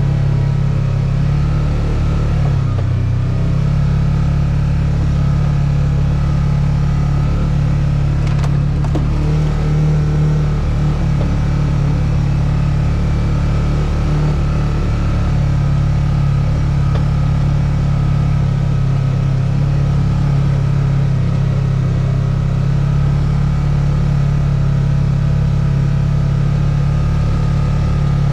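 A steady engine drone, unbroken and even in level.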